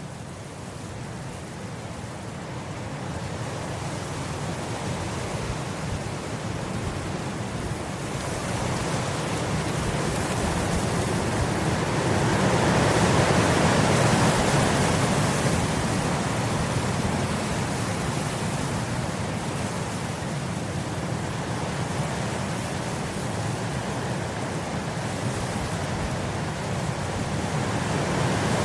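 Wind blowing across grass in gusts: a continuous rushing that swells to its loudest about halfway through, eases off, and builds again near the end.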